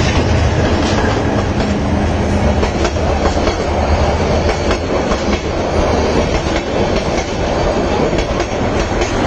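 Bangladesh Railway passenger coaches passing at speed, the wheels clicking over the rail joints in a steady clickety-clack over a continuous rumble.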